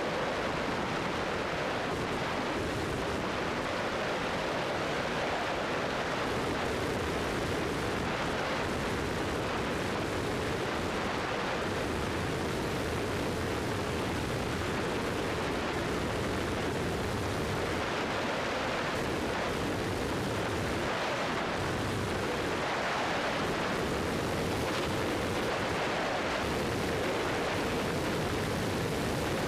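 Steady drone of a Cessna 172's piston engine and propeller heard inside the cabin, with rushing air noise and no change in power.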